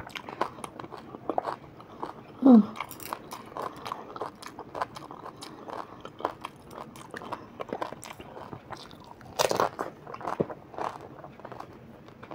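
Hollow fried pani puri shells, filled with spiced water and whole green chillies, being bitten and chewed, with many short crunches throughout. About two and a half seconds in, a short sound falls in pitch and is the loudest moment; a strong hissing crunch comes near nine and a half seconds.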